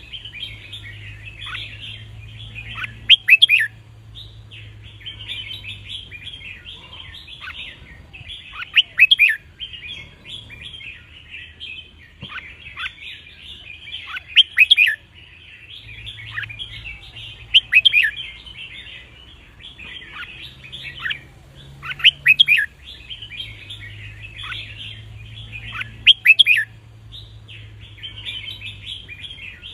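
Red-whiskered bulbul song: loud, short, whistled phrases come every few seconds, about six in all, over continuous twittering and chirping.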